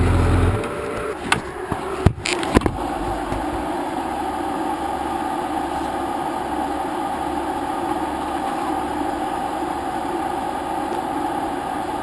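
Motorcycle engine sound cuts off about half a second in. A few sharp knocks follow, then a steady, even rushing noise.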